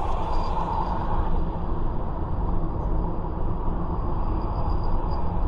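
Peugeot 508 driving at a steady pace: a continuous low rumble of road and running noise with a faint steady high-pitched tone above it, the car being recorded for an abnormal noise it makes on the move.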